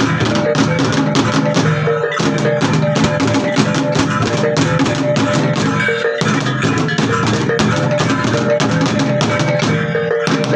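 Percussion music: fast, even drum strokes over steady ringing tones, played without a break.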